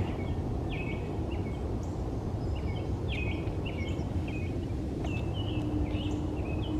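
Birds calling with short, repeated chirps over a steady low outdoor rumble.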